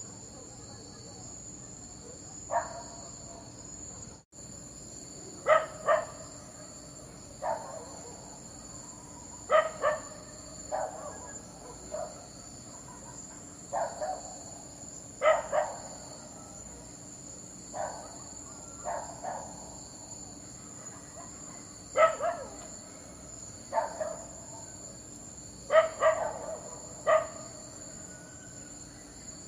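A dog barking in short, sharp single and double barks, one every second or two, with irregular pauses between them.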